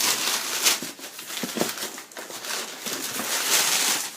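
Packing paper crinkling and rustling as it is pulled and crumpled out of a shipping box, in loud, irregular handling noise.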